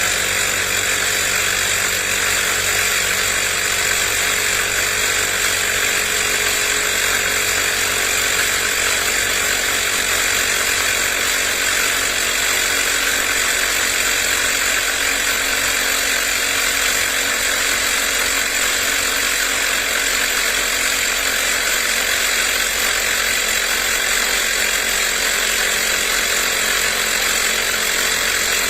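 CYCPLUS 150 PSI cordless mini air compressor running steadily at an even level, its small motor and piston pump giving a constant buzzing drone.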